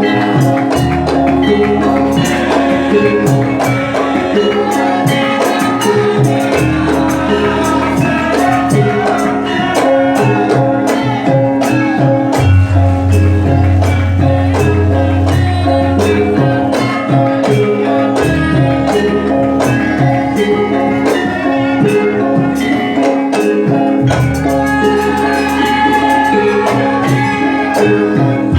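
Javanese gamelan ensemble playing jathilan dance accompaniment: metallophones ringing over a steady percussive beat and shifting low notes, with no pause.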